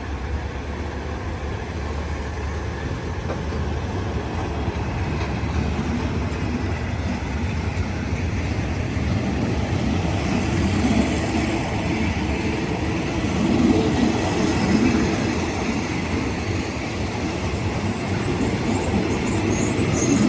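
SRT passenger train carriages rolling on the track: a steady rail rumble with wheel clatter that grows somewhat louder after the middle. There is a brief high squeal near the end.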